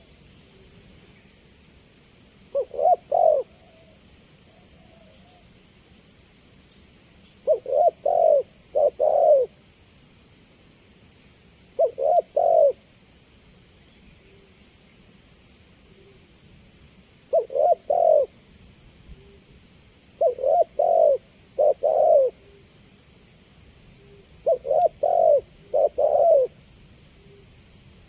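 Spotted dove (tekukur) cooing: short phrases of two or three low, rounded coo notes, repeated every few seconds with pauses between. A steady high hiss runs underneath.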